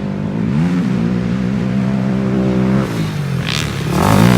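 Off-road vehicle engine running hard, its pitch climbing about half a second in, holding, then dropping near three seconds. A burst of rushing noise comes in near the end.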